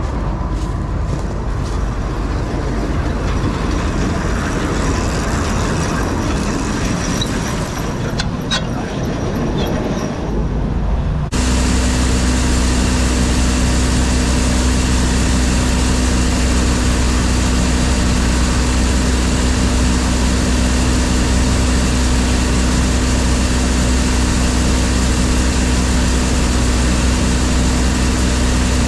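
Farm machinery engine running, with a few sharp clicks about eight to nine seconds in. About eleven seconds in the sound changes abruptly to a steady, unchanging engine idle with an even low hum.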